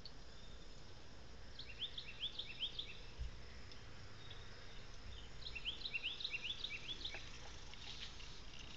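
A bird calling: two quick runs of short rising chirps, about three seconds apart, over a faint steady hum of insects.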